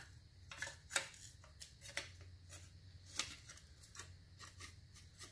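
Faint, irregular light clicks and clinks of small metal parts and a bolt being handled as a car's shifter housing is taken apart.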